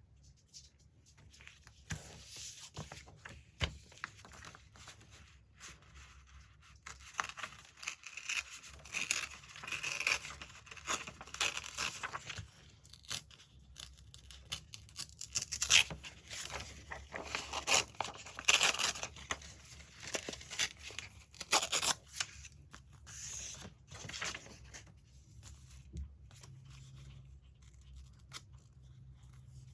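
Magazine paper being torn and handled, a run of short ripping and crackling strokes that is busiest in the middle and thins out near the end.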